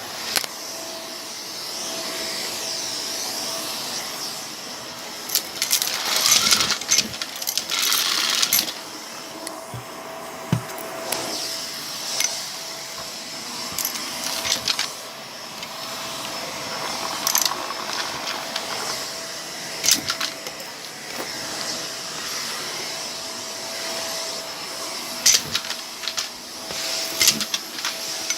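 Vacuum cleaner running over a rug with a steady motor hum, sucking up a debris mix. Several bursts of clicking and rattling come as pieces of debris are pulled up the hose.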